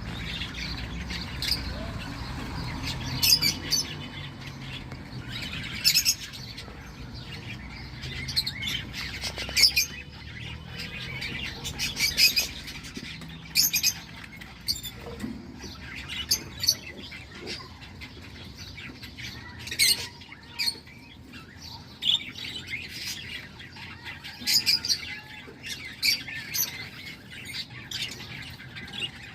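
Cockatiel chicks in the nest calling: many short, sharp, high calls in irregular clusters, several a second at times.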